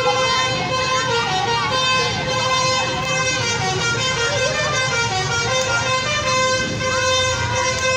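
A steady, loud horn tone held without a break for several seconds, with people's voices over it.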